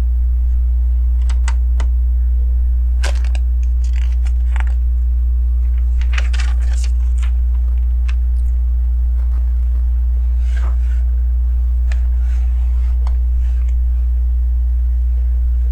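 Small plastic LEGO pieces clicking and rattling at irregular moments as they are picked up and pressed onto the build, with a busier cluster of clicks about six seconds in. A steady low electrical hum runs underneath and is the loudest sound.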